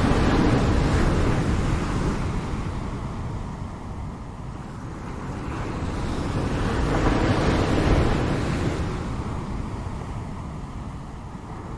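Ocean waves breaking on the shore in a slow surge: one wave washes in at the start and fades, and a second builds and breaks about seven to eight seconds in.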